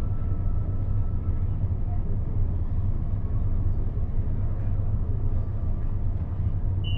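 Steady low hum of a CAF AS-14 metro train's onboard equipment while it stands at a station with its doors open, over a background hiss, with a faint whine that fades out about two seconds in.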